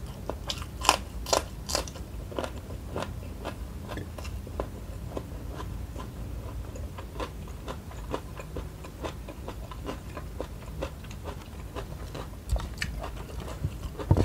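Close-miked crunching bites into a raw green chili pepper: three sharp crunches about a second in, then steady chewing.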